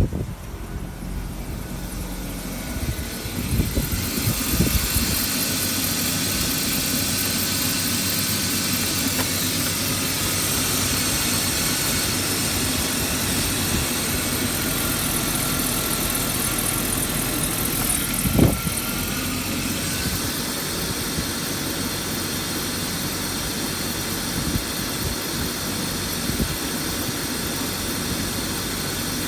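BMW M52B20 2.0-litre inline-six engine running at idle, growing a little louder a few seconds in and then holding steady. One short knock is heard about 18 seconds in.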